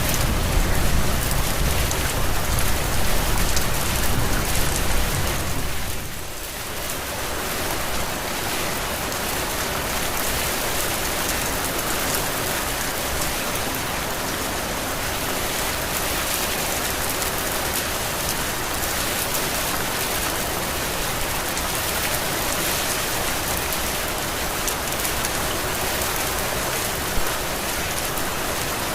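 Heavy rain falling steadily in an even hiss, with a deep low rumble under it for the first few seconds that fades out about six seconds in.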